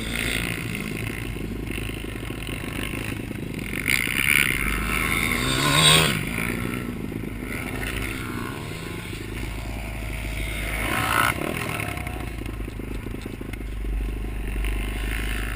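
Motorcycle engine, most likely a pit bike, revving up and easing off as it rides, loudest about six seconds in and again briefly near eleven seconds, over a steady rumble of wind on the microphone.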